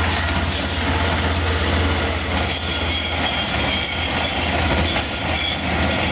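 Train running through a level crossing, its wheels clattering on the rails over a steady low drone.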